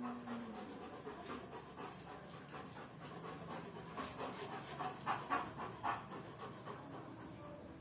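German Shepherd dog panting, in uneven short breaths.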